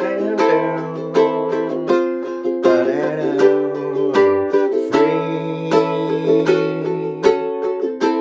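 Ukulele strummed in a steady rhythm, one stroke about every three quarters of a second, ringing chords over a low bass line, with a wavering lead melody about three seconds in.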